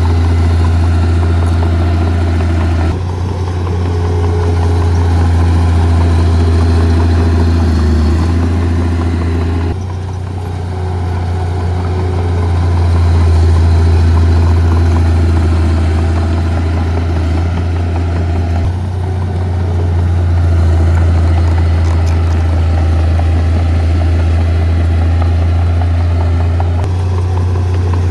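Heavy diesel engine of an earthmoving machine running steadily with a deep hum; the engine note changes abruptly a few times.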